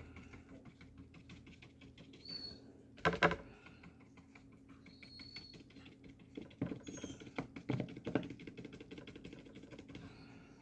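Paintbrush dabbing and tapping gouache onto paper in quick light strokes, with a louder knock about three seconds in and a few firmer strokes later on.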